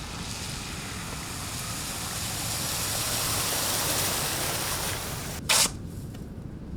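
Steady outdoor rushing noise that swells to a peak about four seconds in and then eases, broken by a short, loud burst about five and a half seconds in.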